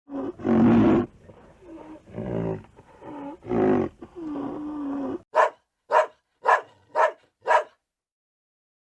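Animal vocalizations: several drawn-out calls with wavering pitch over about five seconds, then five short, sharp calls evenly spaced about half a second apart.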